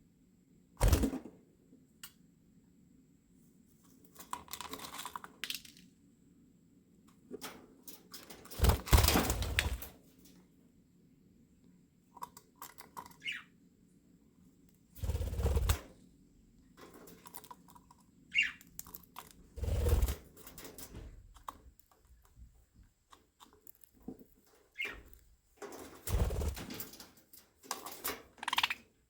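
Budgerigars in an aviary: irregular bursts of rustling, several of them loud, every few seconds, with a few brief high chirps between them.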